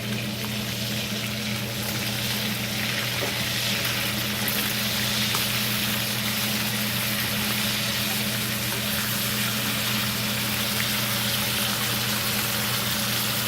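Chicken tenders frying in hot butter in a heavy pan on high heat, a steady sizzling hiss, with a few faint clicks as they are turned over. A steady low hum runs underneath.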